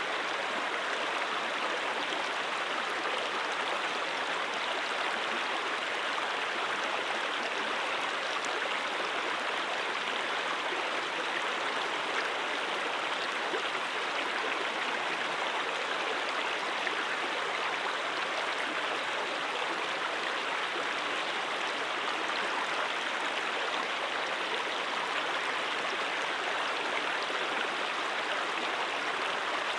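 A stream of water flowing and burbling over rocks, a steady rushing with no pauses.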